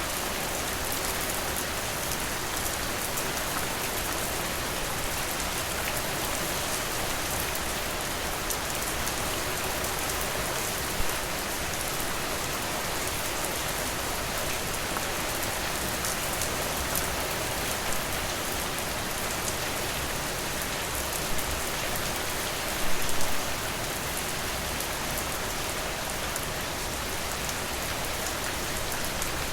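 Steady rain falling, an even hiss throughout, with a few brief louder taps: one about 11 seconds in and a short cluster of them a little after the middle.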